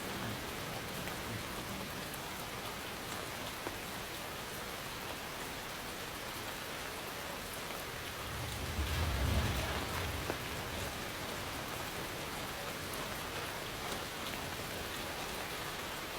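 Steady rain falling and pattering on a surface. A brief low rumble of thunder swells about halfway through.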